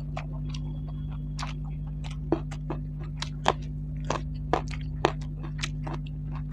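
Close-up chewing of buffalo curry and rice, with short wet mouth clicks and smacks at irregular intervals over a steady low hum.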